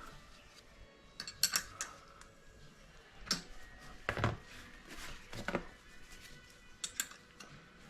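Small metal hand tools clicking and clinking at irregular intervals, a handful of sharp knocks, while the valve clearance is set with a feeler gauge on a GX200-type single-cylinder engine.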